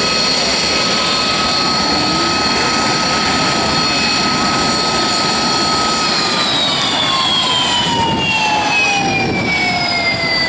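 Sea Harrier FA2's Rolls-Royce Pegasus turbofan running loudly: a dense jet roar with a steady high whine. About six seconds in, the whine starts to fall smoothly and steadily in pitch.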